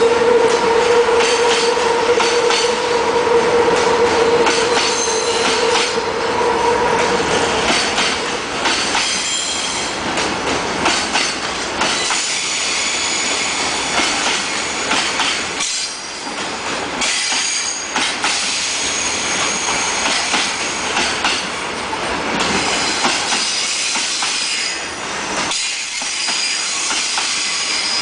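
Freight train of container wagons rolling past, the wheels squealing with shrill on-and-off high tones. A steady hum stops about eight seconds in.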